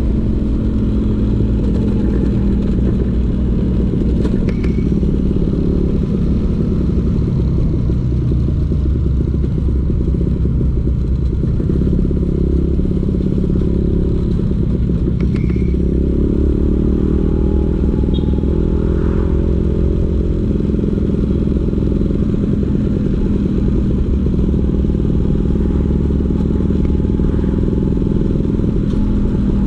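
Vespa PX 150's two-stroke single-cylinder engine running through a DRC Victory racing exhaust, steady and loud, with small rises and falls in engine speed.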